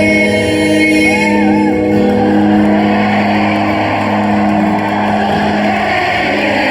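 Live rock band in a concert hall playing held, sustained chords, with a loud crowd roar swelling up over the music from about a second and a half in.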